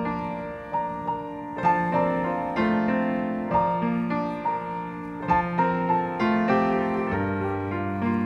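Piano playing an instrumental interlude between verses of a hymn: a melody of struck notes over chords, with a deep bass note coming in near the end.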